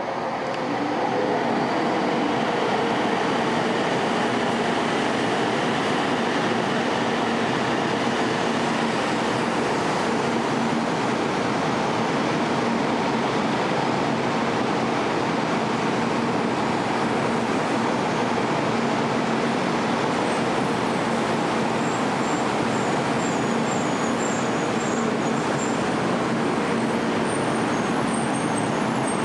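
Kyushu Shinkansen 800 series bullet train pulling into the station platform: a steady rushing rolling noise with a faint low hum throughout, and a few faint high squeaks in the last several seconds.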